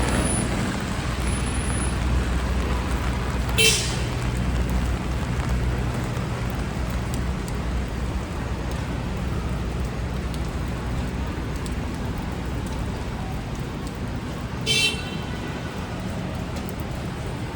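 City street traffic with a nearby engine rumbling low, easing off after about six seconds, and two short car-horn beeps, one about four seconds in and one near the end.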